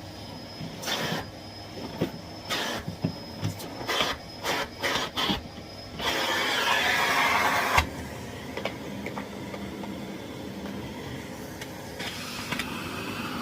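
Miele Blizzard CX1 bagless cylinder vacuum cleaner running, its airflow rising and falling in short rushes as the floor head is worked. About six seconds in there is a louder steady rush for about two seconds, which cuts off suddenly. The vacuum then runs on more quietly.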